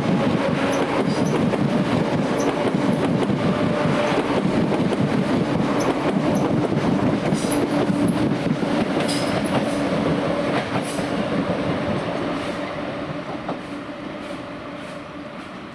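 A passenger train running past on the tracks, with a steady drone and rattling wheels. It fades away over the last few seconds.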